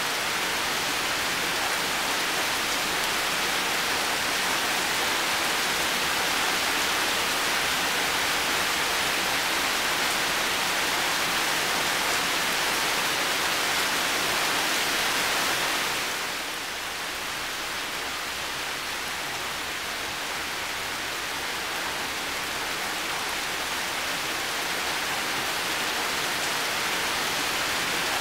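Heavy rain falling steadily, a dense even hiss. About halfway through it drops a little quieter and duller, then slowly builds back up.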